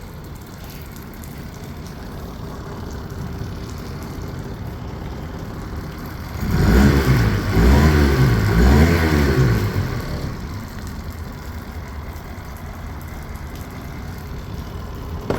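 2012 Yamaha 8 hp four-stroke outboard idling steadily, revved up and down a few times about six seconds in and then settling back to idle. It runs smoothly at idle without the choke, its clogged carburettor main jet cleaned out and the idle adjusted.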